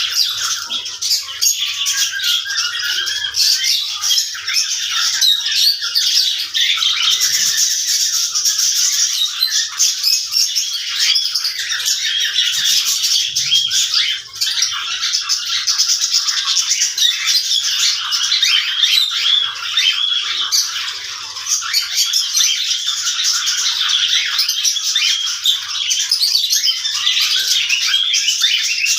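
Cockatiels chattering and squawking, a dense unbroken stream of short, shrill, overlapping calls.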